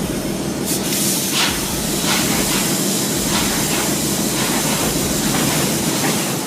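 Fairbanks Morse 32D two-stroke opposed-piston diesel engine running: a loud, steady hiss over a low, dense rumble, with faint regular pulses about every two-thirds of a second.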